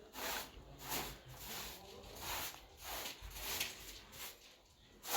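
Repeated hissy scraping strokes, about one every two-thirds of a second, of the kind made by spreading and smoothing mud plaster on a wall.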